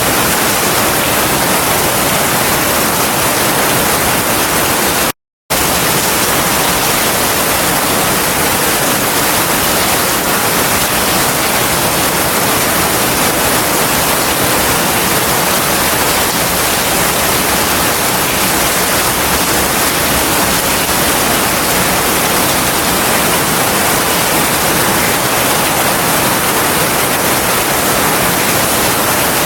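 Heavy rain falling steadily, a dense even hiss. About five seconds in the sound cuts out completely for a split second, then resumes.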